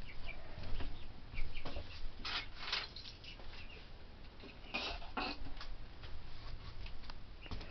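Baby chicks peeping now and then with short, high cheeps, over soft rustling as they settle for the night.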